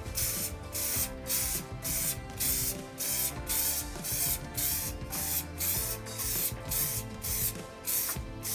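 Aerosol can of Muc-Off Fabric Protect waterproofing spray hissing in many short bursts, about two a second, onto a motorcycle jacket. Background music plays underneath.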